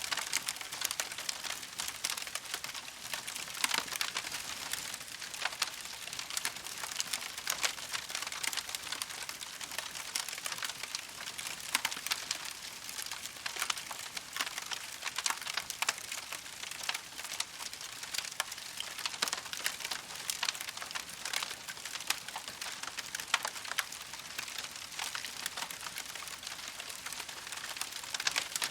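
Wood campfire crackling steadily: a dense, irregular run of small pops and snaps over a soft hiss, with a few louder snaps.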